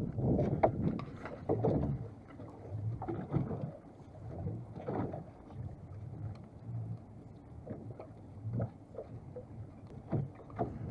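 Water lapping and sloshing against the hull of a small fishing boat, with scattered short knocks and splashes.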